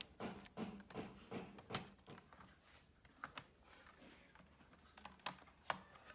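Faint light clicks and taps of small laptop parts being handled and fitted. They come quickly and evenly for about two seconds, then more sparsely, with a few sharper ticks.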